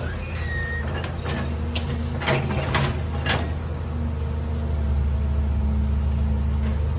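Heavy machine's engine running steadily with a low hum, with a cluster of sharp metallic clanks about one to three and a half seconds in.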